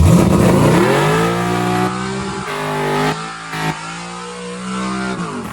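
Car engine accelerating hard, its pitch climbing and then holding, with a couple of short breaks in the middle. The sound cuts off suddenly near the end.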